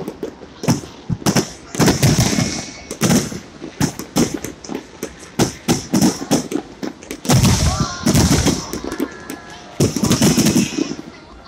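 Fireworks going off in rapid volleys of sharp bangs and crackles, with short lulls between volleys.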